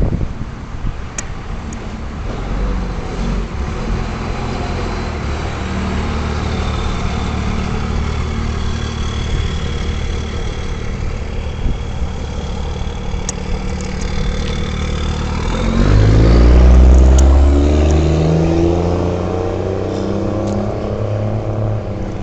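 Road traffic: motor vehicle engines running steadily. About two-thirds of the way through, a vehicle close by accelerates, its engine rising in pitch and becoming the loudest sound.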